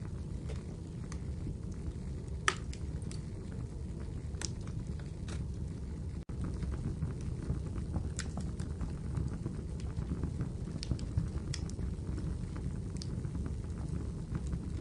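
Wood fire burning in a fireplace: a steady low rumble with scattered sharp crackles and pops, the loudest about two and a half seconds in. The sound drops out for an instant about six seconds in.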